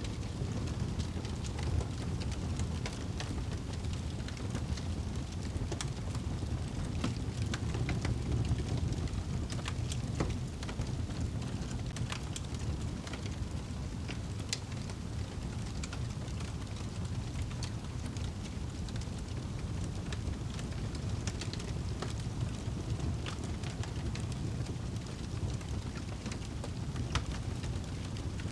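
Fireplace fire crackling, with irregular sharp pops scattered through a steady low rumble.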